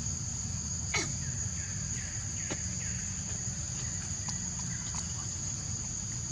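Steady high-pitched insect drone, like crickets, with a bird giving a quick run of short falling chirps about two seconds in and a single sharp click about a second in.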